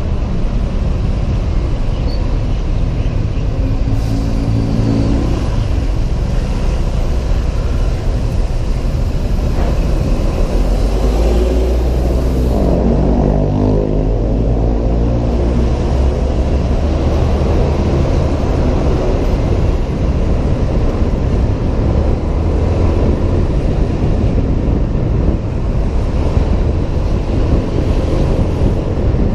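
Ride noise on a Honda PCX 125 scooter in city traffic: steady wind rush and road rumble, with an engine climbing in pitch as it accelerates about halfway through.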